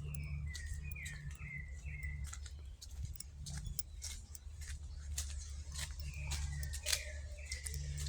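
A songbird singing a phrase of about five short, downward-slurred whistled notes, repeated once about six seconds in. Scattered sharp clicks and a steady low hum run underneath.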